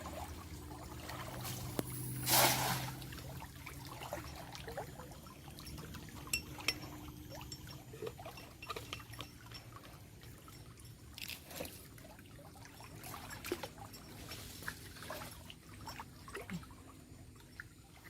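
Water trickling and splashing, with a louder rush of water about two seconds in and scattered small splashes and drips after it.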